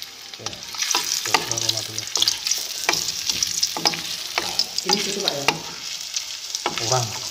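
Carrot sticks sizzling in hot oil in a non-stick wok, stirred with a spatula that scrapes and taps against the pan many times. The sizzling gets louder about a second in.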